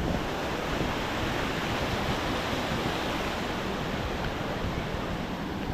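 Steady rushing of flowing water from a mountain stream and falls below.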